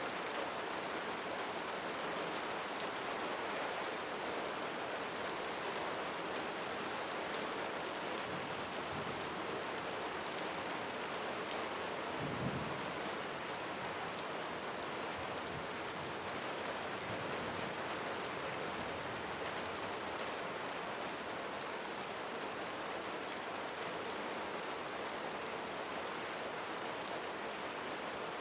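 Steady rain falling on leaves, with scattered individual drop ticks. A short low rumble swells briefly about halfway through.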